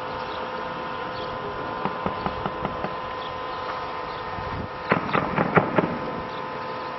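A steady hum, then a quick run of light sharp clicks about two seconds in and a louder cluster of six or so sharp knocks about five seconds in.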